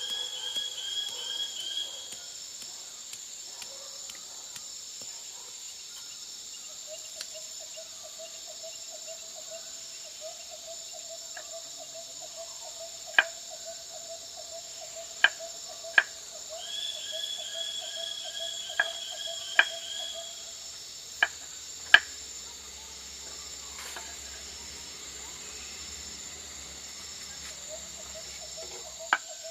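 A steady, high-pitched insect chorus, with a run of quick repeated high calls twice and a lower pulsing trill through much of it. About eight sharp knocks or clicks break through in the second half and are the loudest sounds.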